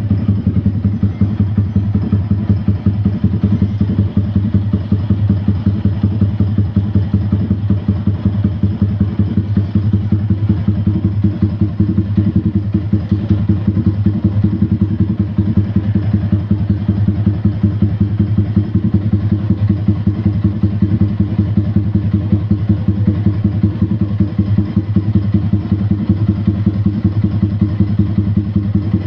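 Yamaha R15 V3's single-cylinder engine running steadily at idle through its exhaust, an even rapid beat with a deep, round bass note.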